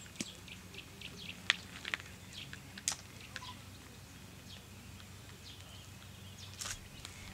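Small birds chirping in short, scattered calls, with two or three sharp clicks in between.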